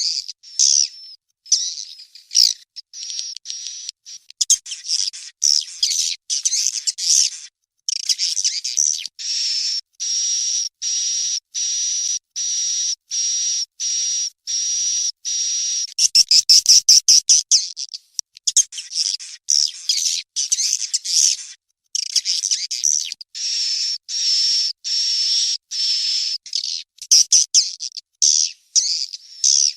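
Swiftlet chick calls from a swiftlet-house lure recording: high, buzzy chirps in quick runs, with an even series of chirps through the middle. About halfway through comes a louder burst of rapid clicking chirps.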